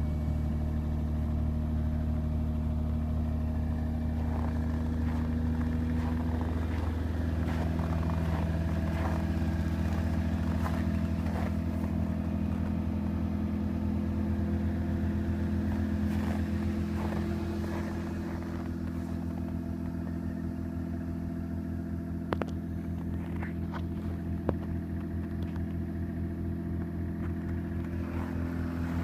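Toyota Crown's 3.0-litre 2JZ straight-six idling steadily just after a cold start at −25 °C, its note shifting a little about seven seconds in and growing slightly quieter from about eighteen seconds. Two faint clicks come near the end.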